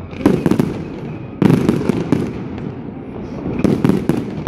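Fireworks display: aerial shells bursting one after another, several sharp bangs with rumbling booms, and a quick cluster of bursts near the end.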